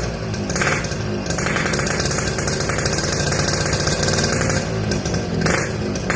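Yamaha RX-King's single-cylinder two-stroke engine revving through a modified exhaust whose baffles have been drilled out, leaving only two sections. It gets a short blip about half a second in, a longer rev held for about three seconds from around a second and a half in, and another brief blip near the end.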